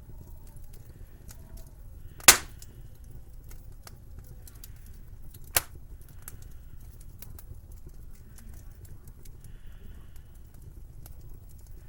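Wood fire crackling in a fireplace: a steady run of small crackles over a low rumble, broken by two sharp loud pops, the first about two seconds in and the louder, the second a few seconds later.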